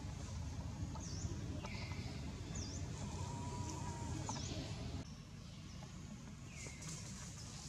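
Outdoor ambience of short, high bird chirps repeating about once a second over a low, steady background noise. The background drops suddenly about five seconds in.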